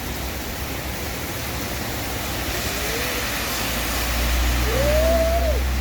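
Car running on a wet road in the rain: a steady low engine and road rumble with a hiss of water, swelling and loudest about four to five seconds in. A short rising-and-falling tone sounds near the end.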